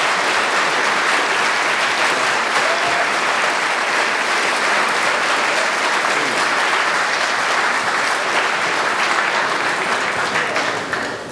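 Audience applauding steadily in a large hall at the end of a barbershop quartet's song, dying away near the end.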